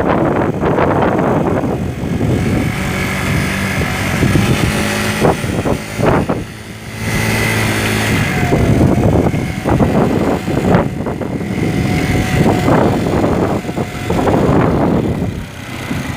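Motorcycle on the move: the engine runs under wind noise on the microphone that rises and falls in gusts.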